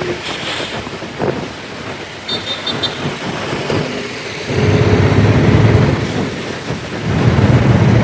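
Wind rushing over the microphone and road noise while riding on the back of a motorcycle, the low rumble getting much louder about halfway through and again near the end. There is a quick series of short high beeps about two and a half seconds in.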